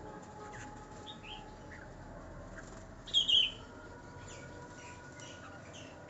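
Small birds chirping in short, high, scattered notes, with a louder pair of quick falling chirps about three seconds in.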